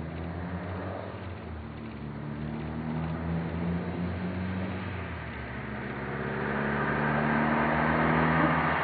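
Mitsubishi Lancer Evolution VIII's turbocharged four-cylinder engine, fitted with an aftermarket turbo-back exhaust, pulling under acceleration. The exhaust note climbs in pitch, dips briefly about five seconds in, then climbs again and grows louder toward the end.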